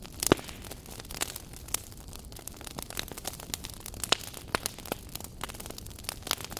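Wood fire burning in a fireplace, crackling with irregular sharp pops over a soft hiss, the loudest pop about a third of a second in.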